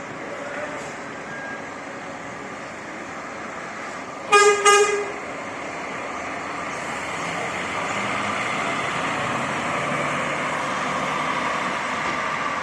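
Two short blasts of a coach horn about four seconds in. Then the steady running noise of the Scania K400 coach grows louder from about seven seconds in.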